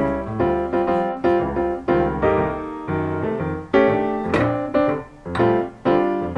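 Background piano music, notes struck one after another at an easy pace.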